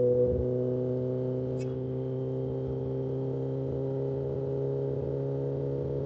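Kawasaki ZX-10R inline-four motorcycle engine running at a steady speed, a constant hum of several steady tones.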